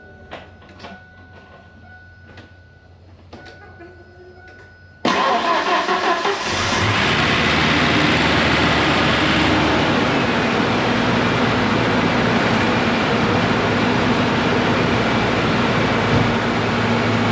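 Ford Ranger 2.3-litre four-cylinder engine starting for the first time after a cylinder-head swap. After a few faint clicks, it starts suddenly about five seconds in, wavers briefly, then settles into steady running.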